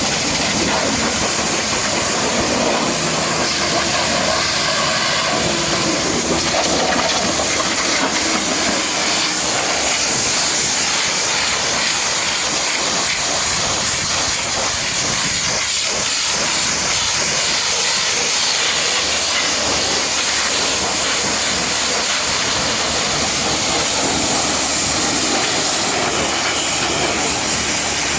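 High-pressure water jet spraying steadily: a constant, loud hiss.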